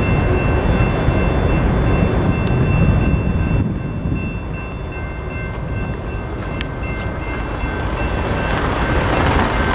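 Freight train of empty intermodal well cars rolling through a level crossing, the wheels rumbling on the rails, louder for the first few seconds and then easing off. The crossing bells ring on over it as a steady high ringing at several pitches.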